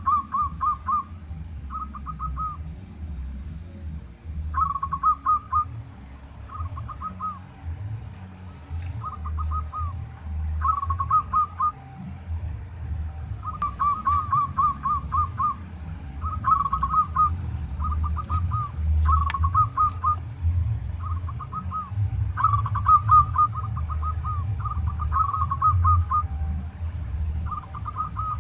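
Zebra dove (perkutut) cooing its staccato song: repeated groups of rapid notes, each about a second long with short pauses between. A steady high tone and a low rumble run underneath.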